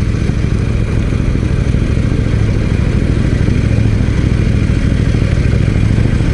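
KTM 790 Duke's parallel-twin engine idling steadily with the bike stopped.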